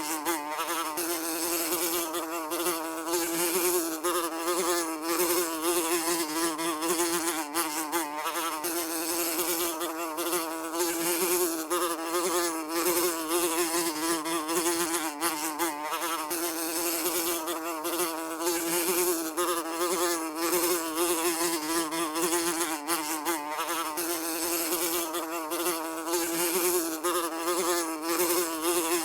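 A fly buzzing continuously in flight, a steady drone whose pitch wavers slightly up and down.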